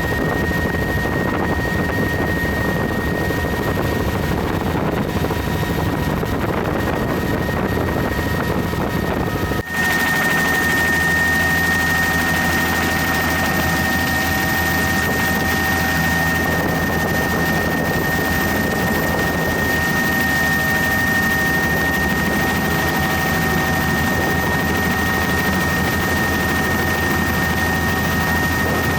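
Helicopter in flight heard from inside the doors-off cabin: a loud, steady drone with a steady high whine over it. About ten seconds in the sound dips briefly and comes back with a slightly different tone.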